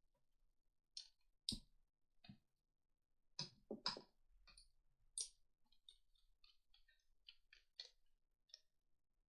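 Plastic segments of a 144-piece Rubik's Snake clicking as they are twisted into place: faint scattered clicks, then a quicker run of light clicks in the second half.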